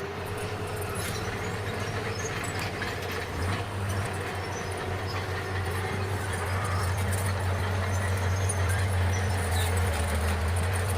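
Bulldozer's diesel engine running steadily under load, with a clatter of clicks and knocks over its low drone; it grows a little louder about halfway through.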